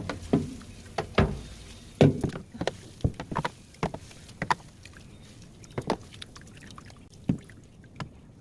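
Water sloshing in the soaking tub of a top-loading washing machine, with a dozen or so irregular knocks and clunks of things being handled in it. The loudest knocks come about one and two seconds in.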